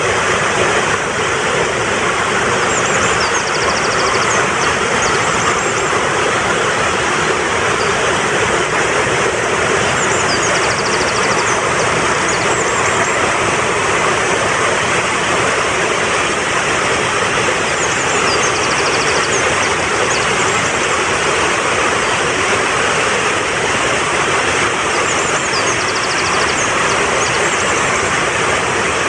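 Fast-flowing mountain stream rushing steadily, with a short, high bird call phrase repeating four times, about every seven seconds.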